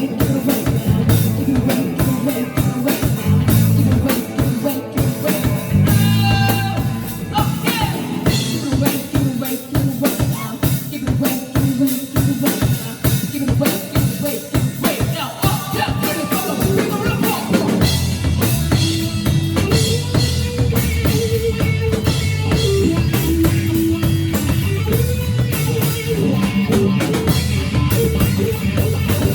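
Live rock band playing, with the drum kit to the fore: a fast run of drum hits through the middle, then guitar and bass notes held over the beat near the end.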